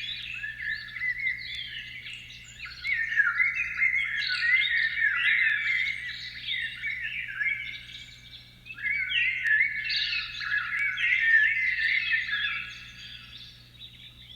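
Many birds chirping at once in rapid, overlapping calls, in three long spells with short lulls between them.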